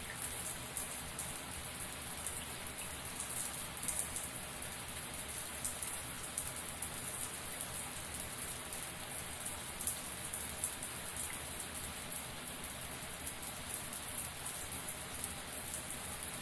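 Shower running: a steady hiss of water spraying and pattering down, with a fine crackle of drops.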